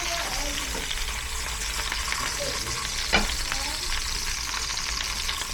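Food sizzling in hot oil in a pan while it is stirred, a steady frying hiss, with one sharp clink of the utensil against the pan about three seconds in.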